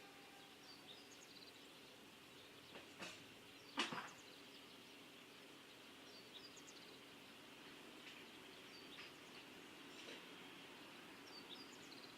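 Faint outdoor background: a steady low hum with scattered small bird chirps, and two sharp knocks about three and four seconds in, the second louder.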